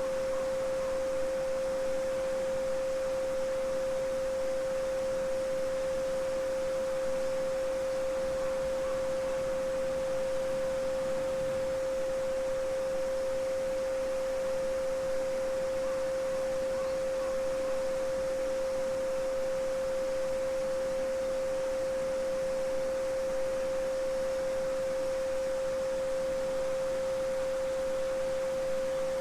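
Steady 528 Hz sine tone held without a break, over the faint babbling of a small stream.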